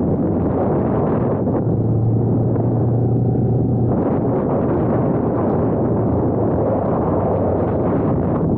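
1998 Kawasaki Ninja 500R's parallel-twin engine running while riding, under heavy wind rush on the camera microphone. A low, steady engine hum stands out for a couple of seconds, about two seconds in.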